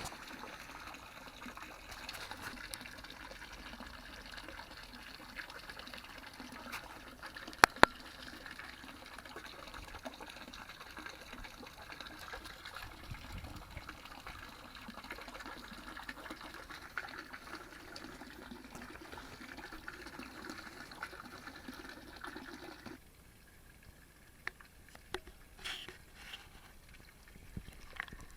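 Water trickling steadily into a pond, cutting off abruptly about 23 seconds in. Two sharp clicks come just before 8 seconds.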